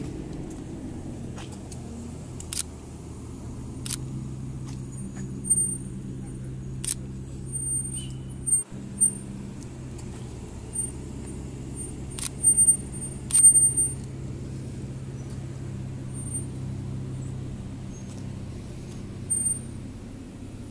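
Aston Martin V12 grand tourers running at low speed as they crawl past in slow traffic, a steady low engine rumble. Scattered sharp clicks and short high-pitched chirps come over it.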